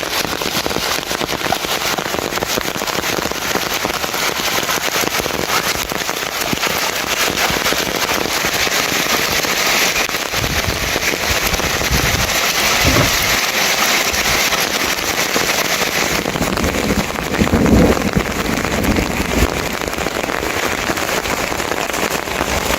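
Heavy rain falling hard: a loud, dense crackle of drops striking a surface, with a few low thuds in the second half.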